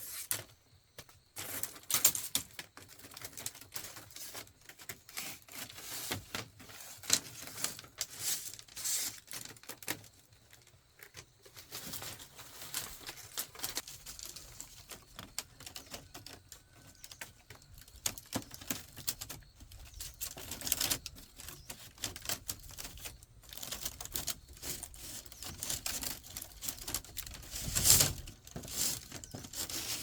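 Irregular taps, clicks and knocks of hand work on bamboo, with a few louder knocks and one heavier knock near the end.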